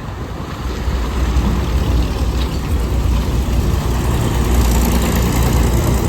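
Heavy road vehicle's engine running with a steady low rumble, amid traffic noise that swells about four to five seconds in as something passes.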